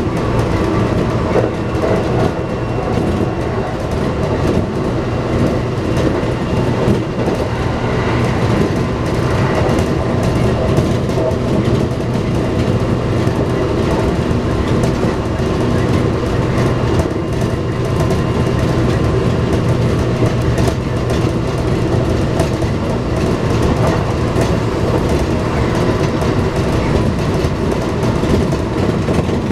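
Kintetsu electric train running along the line, heard from inside the car: a steady rumble of wheels on the rails with a steady low hum underneath.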